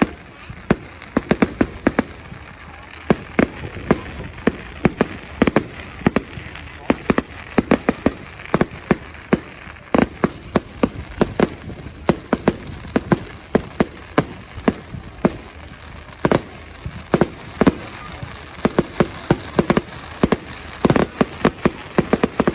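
Fireworks display: a rapid, irregular run of sharp bangs and crackles, several a second, that goes on without a break.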